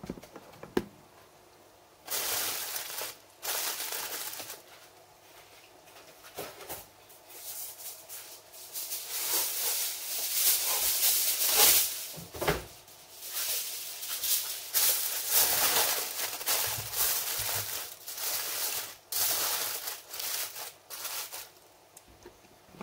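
Rustling and crinkling in irregular bursts of a second or two each, with a few sharp clicks.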